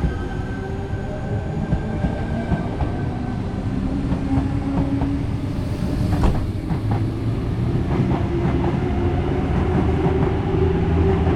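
Sydney Trains Tangara electric train pulling out of the station, its traction motors whining in steady tones. The wheels click over rail joints through the middle, and the running grows louder toward the end.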